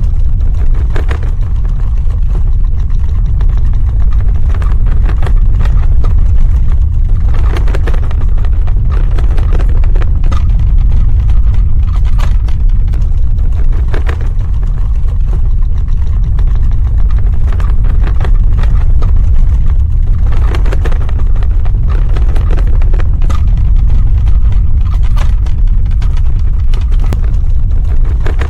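Earthquake sound effect: a loud, steady deep rumble, with bursts of crackling and rattling every few seconds.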